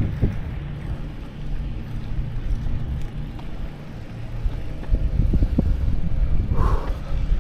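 Wind buffeting the microphone of a moving bicycle ride, a low rumble that eases off in the middle and grows stronger about five seconds in, with a brief higher sound near the end.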